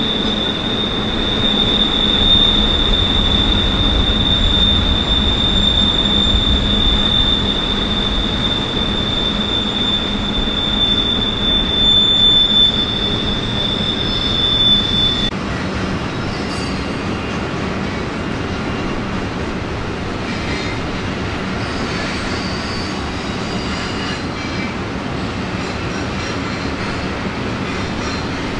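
Train rolling past, its wheels squealing in one steady high-pitched tone that cuts off abruptly about halfway through. The rumble of the rolling cars carries on, with fainter, intermittent squeals.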